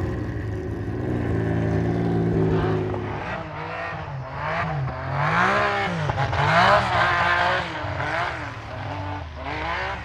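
Race car engine idling, then revved up and down several times in quick blips as it is warmed up before going out.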